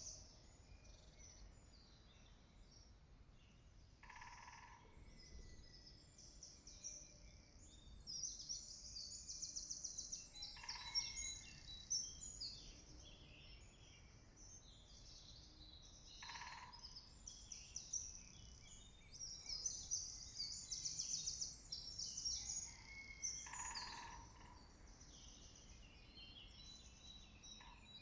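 Spring woodland birdsong: several small birds singing high chirps and trills, with a lower single call repeating about every six to seven seconds.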